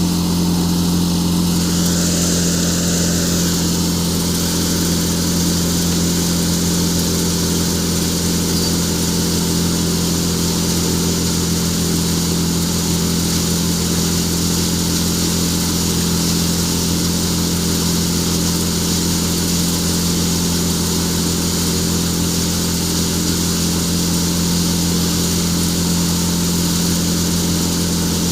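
Tractor-driven thresher machine threshing chickpeas: the Farmtrac tractor's engine and the thresher run at a steady speed with a constant loud hum, and a higher hiss comes in about two seconds in.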